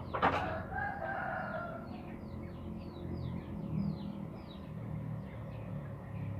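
A rooster crowing once, about a second and a half long, starting with a sharp click. Small birds chirp over and over throughout.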